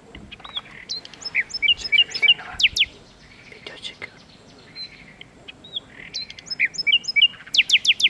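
Common nightingale singing: varied phrases of sharp whistled and chirped notes, a pause, then near the end a loud, fast run of repeated downslurred notes.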